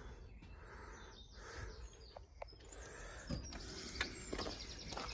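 Faint birdsong: scattered chirps, with a rapid high trill from about three and a half seconds in.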